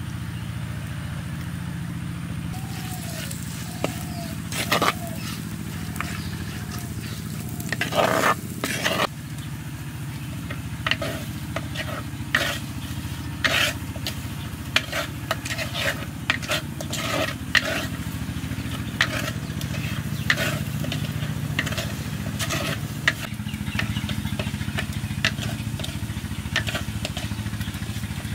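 Chopped onion and green chillies sizzling in oil in a terracotta clay pot, with frequent short scrapes and taps of a metal spoon stirring against the pot. A steady low hum runs underneath.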